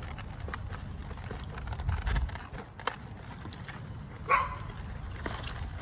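A dog gives one short yip about four seconds in, over a low outdoor rumble, with a single faint click near the middle.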